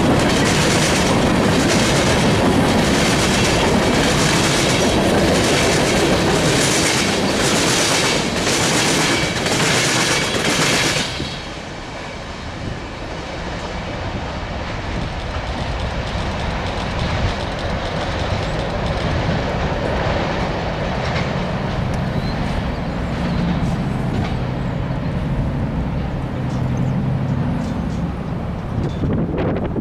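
Freight train cars rolling past close by, wheels clacking over the rails in an even rhythm about every two-thirds of a second. About eleven seconds in the last car goes by and the sound drops abruptly to a lower rumble of the receding train mixed with wind on the microphone.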